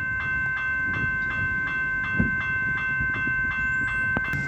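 Level crossing bell ringing steadily, about three to four strokes a second, over the low rumble of a diesel railmotor standing at the station.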